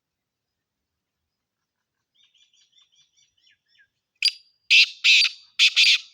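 Black francolin (black partridge) calling: a faint run of small chirps, then a short note and three loud, harsh, grating notes in quick succession near the end.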